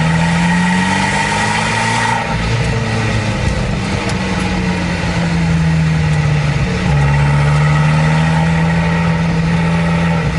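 Abarth 595's 1.4-litre turbocharged four-cylinder engine running. Its note rises over the first two seconds and then eases slowly down. About seven seconds in it changes suddenly and gets louder.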